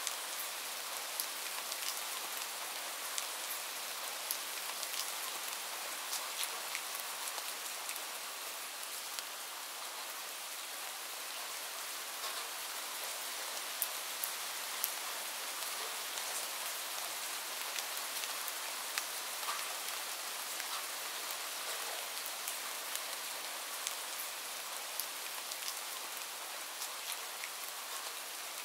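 Steady rain falling into a shallow puddle: an even hiss dotted with many sharp individual drop splashes.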